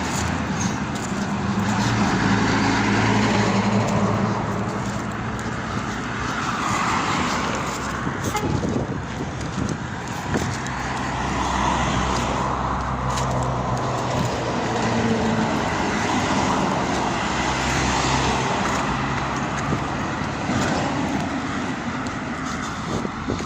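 Road traffic: several cars and other vehicles passing one after another, their engine hum and tyre noise swelling and fading.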